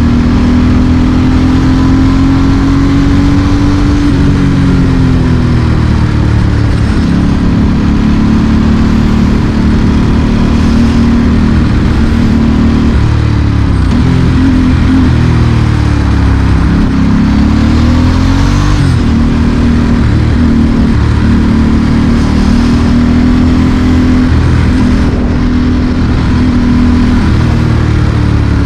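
Ducati Monster S4R's L-twin engine through a straight exhaust, ridden at city pace. Its pitch rises and falls repeatedly as it pulls through the gears and rolls off the throttle.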